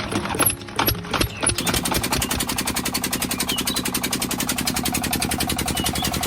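Miniature model diesel engine: a few irregular knocks, then from about a second and a half in, it runs with a fast, even beat of about a dozen strokes a second.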